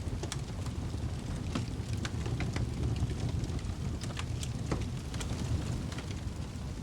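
Fireplace fire crackling: irregular sharp pops and snaps scattered over a steady low rumble.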